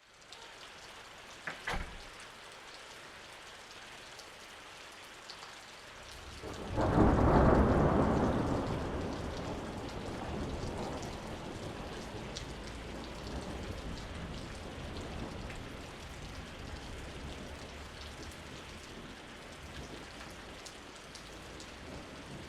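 Steady rain falling, with a brief sharp crack about a second and a half in. About seven seconds in comes a loud clap of thunder that rolls on and slowly fades over several seconds while the rain keeps on.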